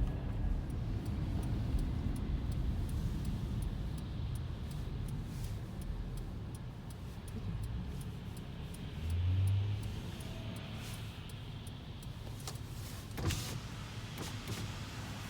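Engine of a 2022 Peterbilt 548 rear-loader recycling truck running with a steady low rumble. A brief louder hum comes about nine seconds in, and a sharp knock about thirteen seconds in.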